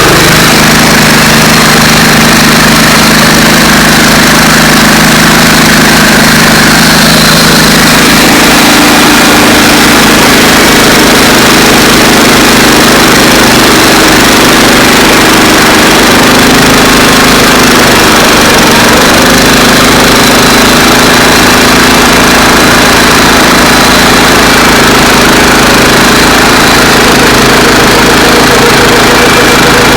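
Central Machinery bandsaw mill's engine running steadily at speed, very loud, while the band blade cuts through a walnut log, with slight changes in pitch midway as the load varies.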